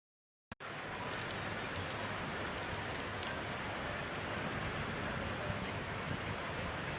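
Steady rain falling on hard surfaces, an even hiss with a few single drops ticking, cutting in suddenly about half a second in after total silence.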